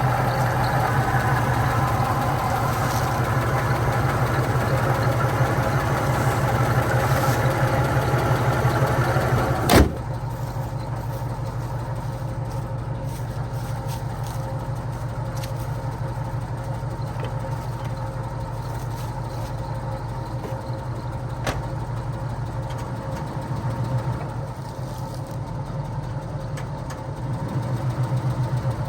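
Car engine idling steadily through its aftermarket exhaust pipes. About ten seconds in there is a single sharp knock, after which the engine sounds quieter.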